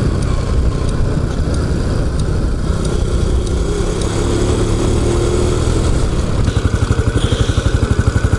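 Honda Super Cub's small single-cylinder four-stroke engine running while riding, then settling to an even, pulsing idle about six and a half seconds in as the bike comes to a stop.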